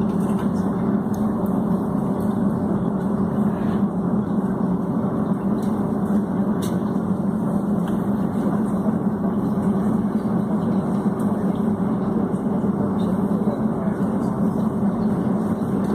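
Steady low hum of a Boeing 757's jet engines at low power with cabin air noise, heard inside the passenger cabin, holding one even pitch and level.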